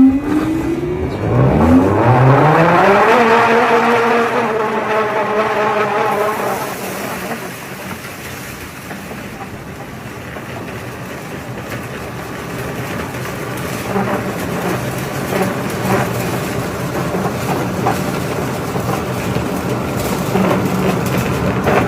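Motor of an automatic feed-making machine spinning up with a rising whine for about three seconds, then running steadily. It settles into a rougher, noisier run with scattered clicks and rattles in the second half.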